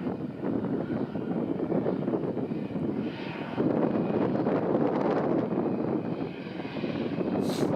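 Airbus A320 jet engines running: a dense rumble with a faint high whine, growing louder about three and a half seconds in. A brief sharp click near the end.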